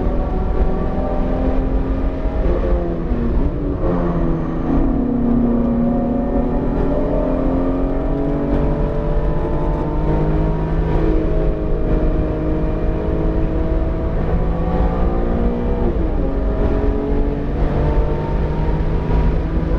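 BMW E46 M3's S54 straight-six engine under load on track, still in its break-in on a fresh build. Its pitch dips about three seconds in and drops sharply again at about sixteen seconds, climbing steadily in between.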